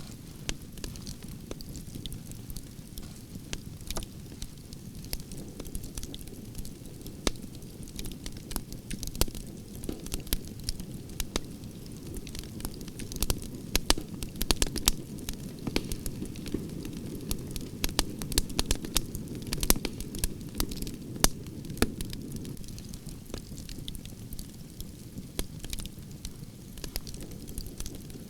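Wood fire of burning branches crackling, with irregular sharp pops and snaps over a steady low rumble of the flames; the popping is busiest around the middle.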